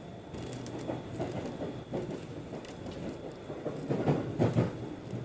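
Aichi Loop Railway train running, heard from inside the carriage: a steady rumble with the wheels clacking over rail joints, and a cluster of louder knocks about four seconds in.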